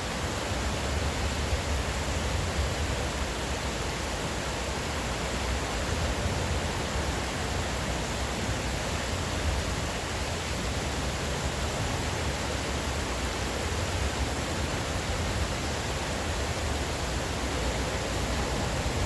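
Steady rushing of stream water, an even hiss with a low rumble underneath.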